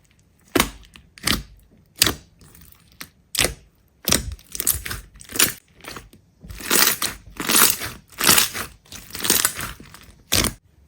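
A run of crisp crunching strokes, about one every three-quarters of a second. From about six seconds in they turn into longer, rougher crunches in quick succession.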